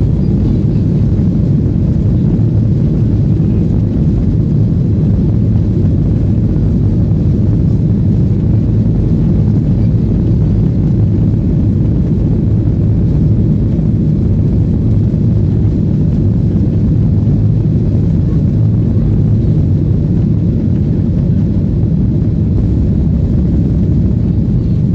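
Airliner during takeoff: a steady, loud low rumble of jet engines and airflow that holds even throughout, heard as cabin noise.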